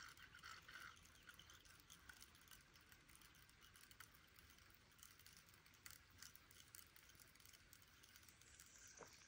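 Near silence, with faint scattered ticking from a spinning reel being cranked as a fish is reeled in.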